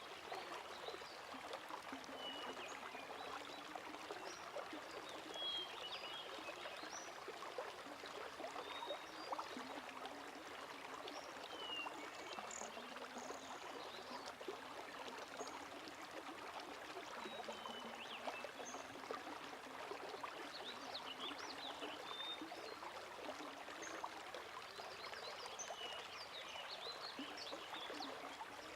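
Steady, faint trickling of running water, with scattered short high chirps over it.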